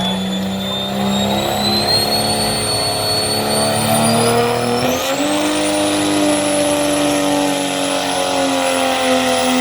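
Pulling truck's engine running hard at high revs while dragging the weight sled, with a high whistle climbing above it. About five seconds in, the engine pitch and the whistle jump up and then hold high.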